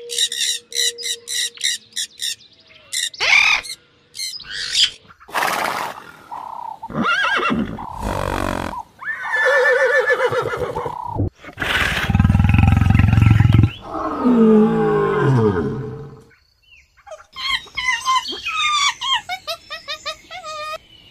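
A run of animal calls: sun conures giving rapid, evenly repeated shrill squawks at the start, then horses whinnying and snorting in the middle, one whinny falling steeply in pitch, and quick high chattering calls near the end.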